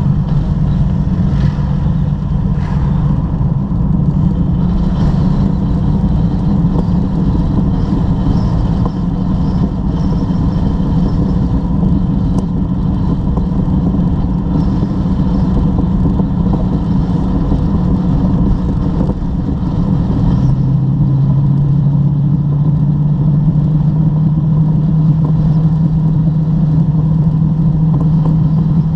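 Car engine running steadily, heard from inside the cabin along with road noise. About two-thirds of the way through, a steady engine tone comes in and slowly climbs in pitch as the car pulls harder.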